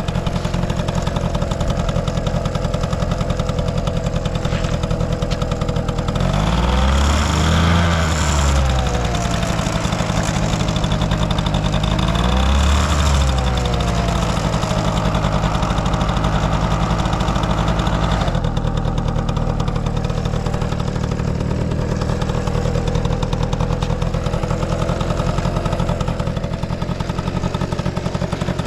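Honda Motocompo AB12 scooter's small two-stroke single-cylinder engine running at idle, revved twice, about seven and twelve seconds in, its pitch rising and falling back each time. It revs up cleanly with no abnormal noise.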